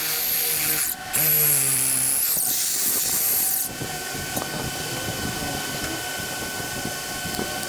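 Drill running in two bursts while drilling holes, its motor whine dipping slightly in pitch under load, with a brief break about a second in. It stops about three and a half seconds in, leaving a quieter steady hum.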